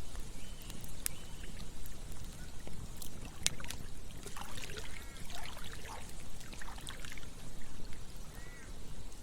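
Campfire crackling with scattered sharp pops, over the steady rush and gurgle of a flowing river.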